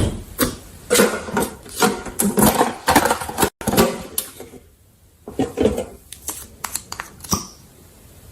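Irregular knocks, clicks and clatter of small objects being handled, like containers and utensils, with a short lull midway and fewer clicks near the end.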